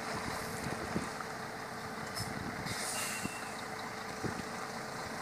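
Heavy truck engine running under a steady drone, with scattered knocks and short bursts of hissing air about two to three seconds in.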